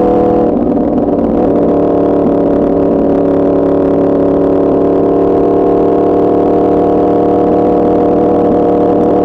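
Yamaha R1's crossplane inline-four engine running through an Arrow Pro Racing exhaust while riding. The note breaks up briefly about half a second in, then settles into a steady pitch.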